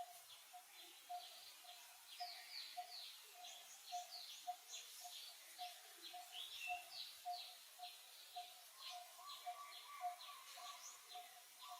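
A faint outdoor bird chorus: many quick, high, falling chirps over one bird's repeated lower note, about two a second. From about nine seconds in, a steadier, slightly higher call joins.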